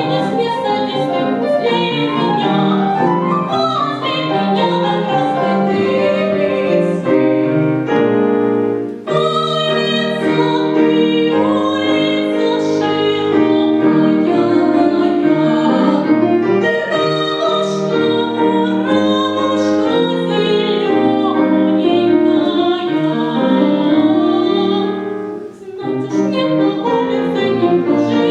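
A solo singer performing a classical song in operatic style with piano accompaniment. The voice holds long, wavering notes over the piano, with two brief breaks between phrases: one about nine seconds in and one near the end.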